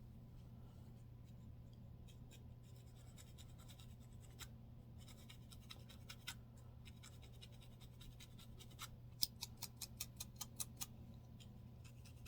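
Scratching at a man's flaky, dandruff-covered scalp: faint scraping strokes through the hair, then a quick run of about ten sharper strokes near the end, over a steady low hum.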